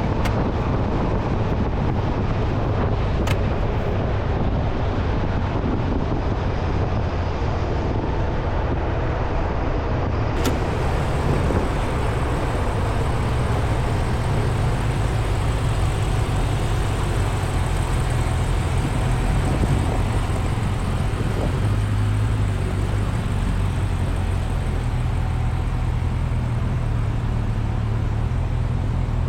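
Motorcycle engine running steadily under way, with wind noise on the microphone. The engine note shifts a little higher about three-quarters of the way through.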